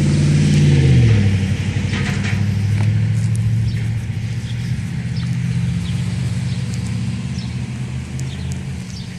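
A motor vehicle's engine passing close by, its note dropping about a second in, then running steadily and fading away.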